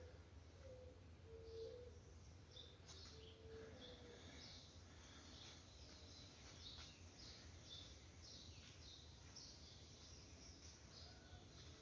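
Near silence, with faint, rapid bird chirping repeating throughout.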